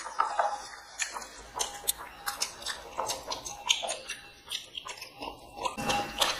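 People chewing and biting mouthfuls of mutton biryani eaten by hand, a run of short, irregular mouth clicks and smacks.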